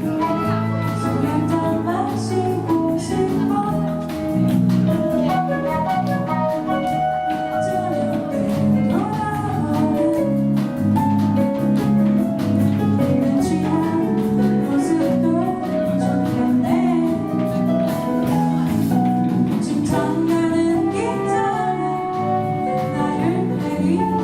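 A song sung with instrumental accompaniment: a voice carrying the melody over a steady bass and chords.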